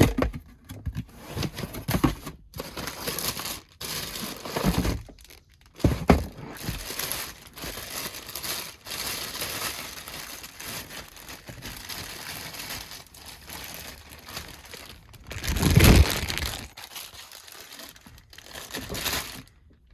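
Packaging crinkling, rustling and tearing as a new replacement starter motor is unwrapped and handled, with a louder thump near the end.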